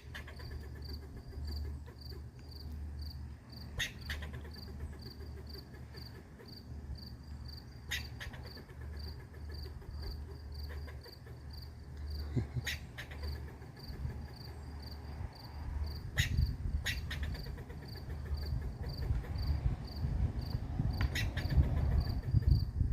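A cricket chirping steadily, a high even chirp repeating about two to three times a second. Under it runs a low rumble that grows louder in the last few seconds, with a few sharp clicks.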